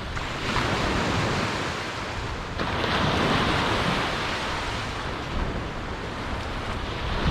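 Small waves of a calm surf washing up on a sandy beach, swelling twice, the second wash louder, with wind buffeting the microphone.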